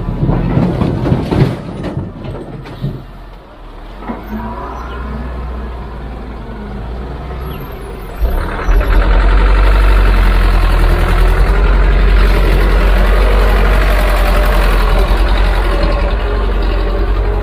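Heavy diesel machinery engine running, with irregular knocks in the first couple of seconds. About eight seconds in it suddenly grows much louder and stays loud and steady, as under load or revved.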